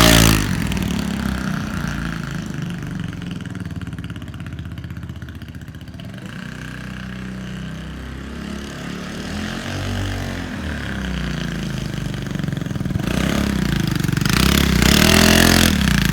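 Royal Alloy GP200 scooter engine running through a Tasso TE316 race exhaust. It is revved high at the start and drops back to an uneven idle, is blipped briefly about ten seconds in, and climbs to high revs again near the end.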